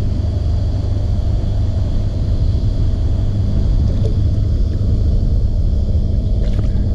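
A motor running steadily: a continuous low rumble with a constant hum.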